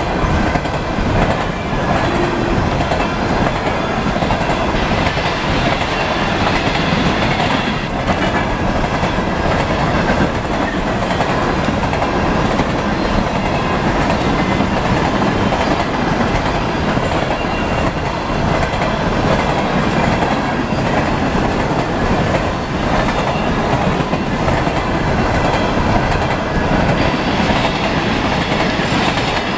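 Norfolk Southern coal hopper cars rolling past at speed, a steady loud rumble and clatter of steel wheels on rail with clickety-clack over the rail joints.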